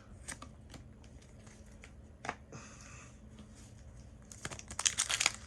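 Trading cards being handled and flipped through: soft scattered ticks with one sharper click about two seconds in, and denser rustling near the end.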